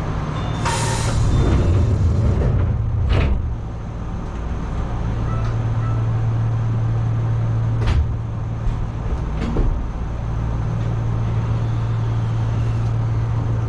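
Enshu Railway 2000-series electric train: a steady low hum, a loud hiss about a second in that lasts a couple of seconds, and a few sharp knocks later on.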